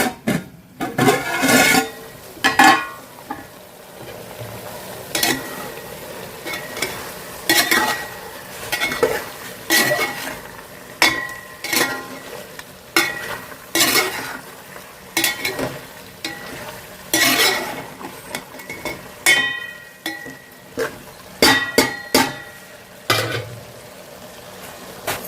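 A spoon stirring and scraping food in a cooking pot, about one stroke a second and some strokes ringing, over a steady sizzle of frying.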